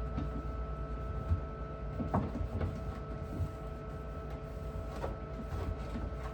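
A steady mechanical hum with a few constant tones, and a few light knocks and clicks of things being handled.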